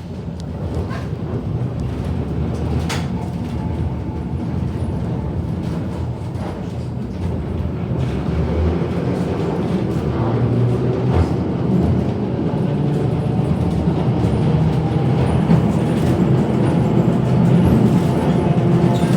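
Heritage electric tram running, heard from on board: a steady low rumble of motors and wheels on the rails that grows louder, with a few clicks.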